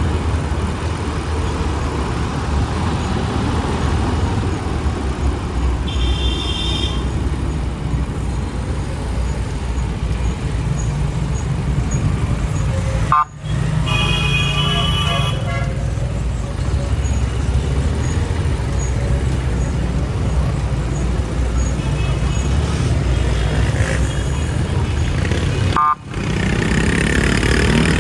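Motorcycle engine running steadily with road noise through city traffic, with vehicle horns tooting about 6 seconds in and again around 14 seconds.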